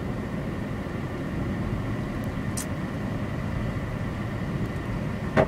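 Steady road and engine noise of a car heard from inside the cabin while driving, with a faint high whine and a couple of brief ticks.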